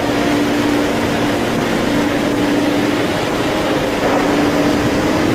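A motor running with a steady drone over a constant rushing noise.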